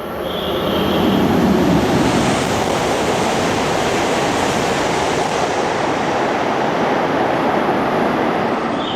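Tohoku Shinkansen train passing through the station at high speed: a loud, steady rushing roar of wheels and air that swells in about a second in and eases off near the end.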